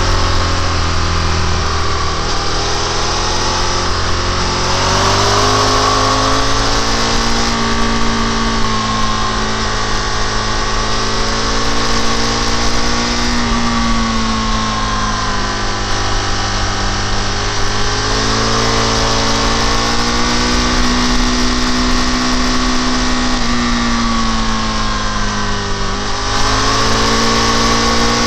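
A motorcycle engine running hard on the road, its pitch rising and falling as the rider opens and closes the throttle through the bends, with a few sharper dips, over a steady rush of wind noise.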